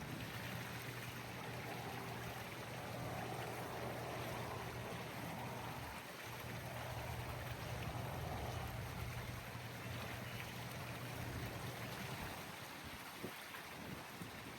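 Water running, with a low steady hum that drops out briefly about six seconds in and stops near the end.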